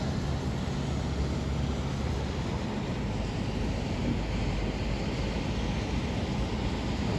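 Thunderstorm wind blowing steadily, a low rushing noise without a break.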